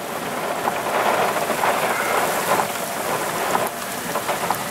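Heavy rain from a severe thunderstorm, a steady pattering rush with scattered small ticks of drops striking a surface.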